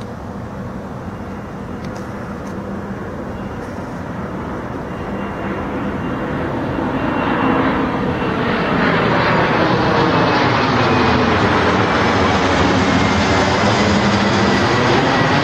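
Jet airliner's turbofan engines as the aircraft approaches and passes, a rushing roar that builds steadily over the first several seconds and then holds loud. A thin high whine sits over it and sinks slightly in pitch near the end, and the rush has a sweeping, phasing quality as the plane moves.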